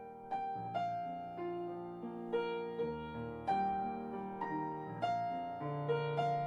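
Soft background piano music: single notes and chords struck every half second or so, each ringing and fading.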